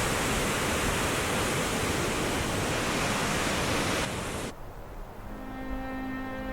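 Steady rushing of the Cleddau River's white water pouring through a narrow rock gorge. It cuts off suddenly about four and a half seconds in, and soft background music with long held notes follows.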